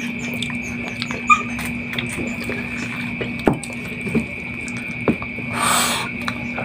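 Close-up wet mouth sounds of eating chicken and rice by hand: chewing and lip-smacking with scattered sharp smacks, and a short hissing sound about two-thirds of the way in. A steady faint hum sits underneath.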